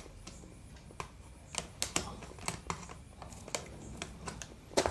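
Irregular light clicks and taps of a spanner loosening the mounting nuts of an amplifier's volume, bass and treble potentiometers, with a louder click near the end.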